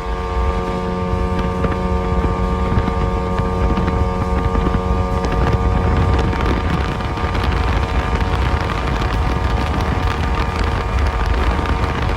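Mariner 135 outboard motor running the bass boat at a steady speed, its pitch holding even, with heavy wind buffeting on the microphone.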